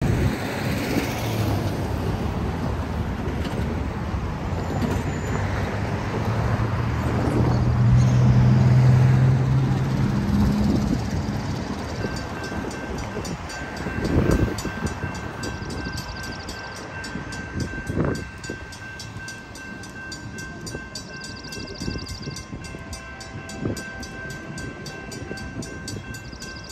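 A freight train passes at speed with loud rushing wheel noise that fades out after about twelve seconds. After that the grade-crossing warning bells ring on steadily with even repeated strokes, broken by a few short thuds.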